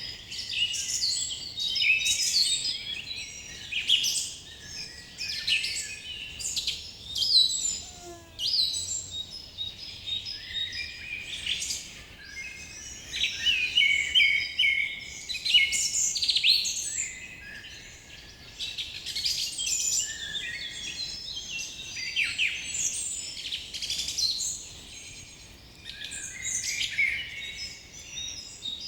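Chorus of many songbirds singing and chirping at once, dense overlapping high chirps and trills throughout, over a faint background hiss.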